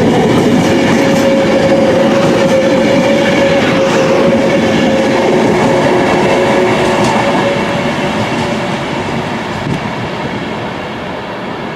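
Passenger train running along the platform: a steady rumble of wheels on rails with a steady high hum, dying away toward the end.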